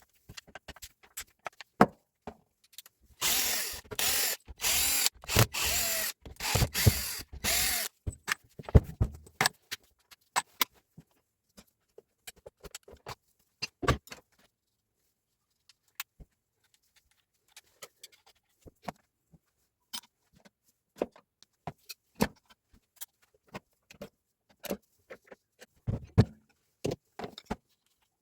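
A power tool run in a series of short bursts for about five seconds, followed by scattered clicks and knocks of tool parts being handled.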